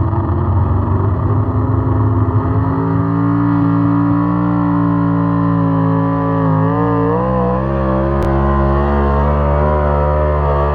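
Pulling truck's engine running hard under load, its pitch climbing over the first few seconds, then holding high and wavering.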